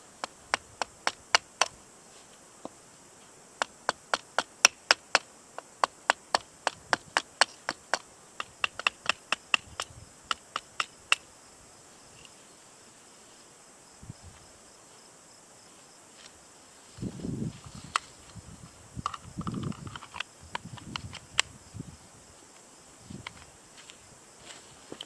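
A quick, uneven run of sharp knocks, two to four a second, stopping after about eleven seconds; later come a few seconds of low rustling and shuffling handling noise.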